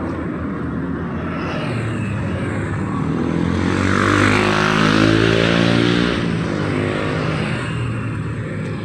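A motor vehicle passing close by: its engine grows louder to a peak about halfway through, and the engine note drops in pitch as it goes past and draws away.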